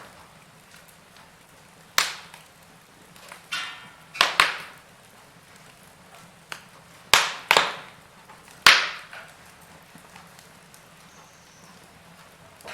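Wood fire in a fireplace crackling: a handful of sharp pops and snaps, irregularly spaced a second or more apart, over a faint steady hiss.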